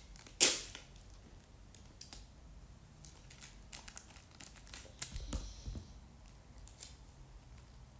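Sticky tape ripped off the roll in short tearing bursts, the loudest about half a second in, followed by scattered clicks and light crinkles as it is pressed onto tissue paper to cover holes.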